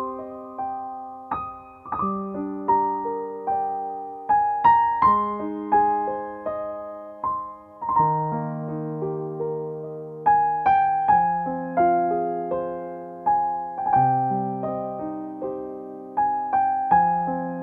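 Background music: a gentle solo piano playing slow arpeggiated chords, each note struck and left to ring and fade.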